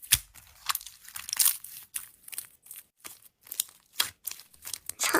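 Slime being squeezed and pressed by hand, giving irregular crackling, crunching clicks and small pops.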